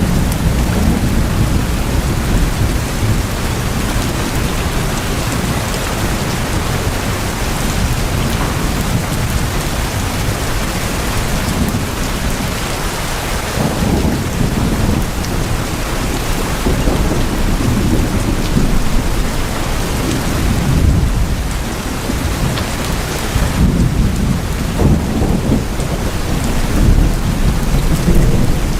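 Heavy rain drumming steadily on tin roofs, with a low rumble that swells and eases several times.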